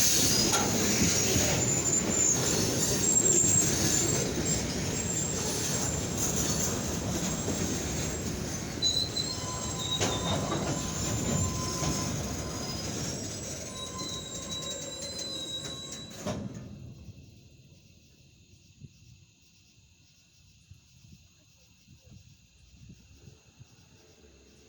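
Kiamichi Railroad freight train rolling past, its rumble laced with steady high-pitched wheel squeal. The train sound cuts off abruptly about 16 seconds in, leaving the steady chirring of insects.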